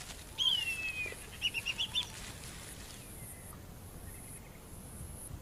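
A bird calling: one clear downward-sliding whistle, then a quick run of about six short rising notes, over a faint high hiss of background ambience.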